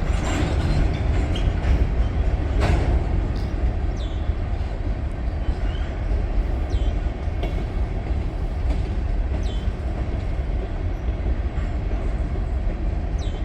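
Norfolk Southern freight train cars rolling steadily past with a continuous low rumble, with a few sharp clicks from the wheels in the first few seconds.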